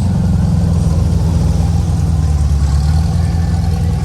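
A car engine running at a steady idle: a low, even rumble.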